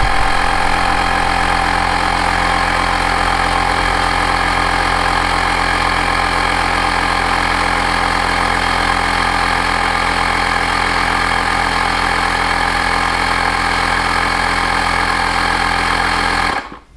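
ShockFlow cordless portable air inflator running steadily as it pumps up a motorcycle's rear tyre, then cutting off abruptly near the end as it shuts itself off at its set pressure.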